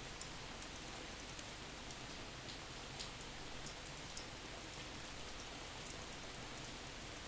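Steady rain, with many sharp individual drips ticking through it, recorded at a back door and panned from side to side.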